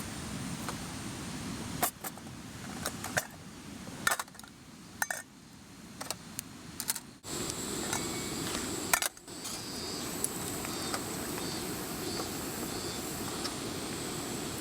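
Metal clinks and knocks of camp cookware being handled, a scattered string of them over a few seconds, over the steady rush of a stream.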